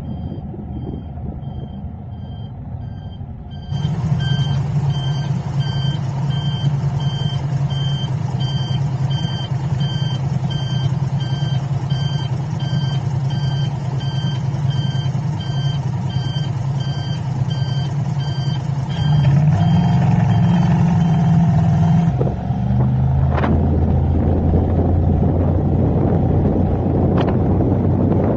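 Rapid electronic beeping repeating evenly over the steady low hum of a running vehicle, like a reversing alarm. The beeping starts a few seconds in and stops a few seconds before the end, after which road and wind noise are louder.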